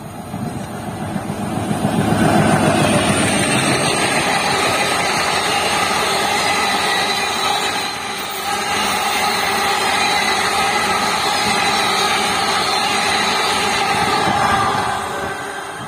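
An express passenger train hauled by a WDM-3D diesel locomotive passing at speed, about 110 km/h. The sound builds quickly over the first two seconds as the locomotive comes by. Then comes a steady loud rush and rapid clatter of coach wheels on the rails, which fades away near the end as the last coach passes.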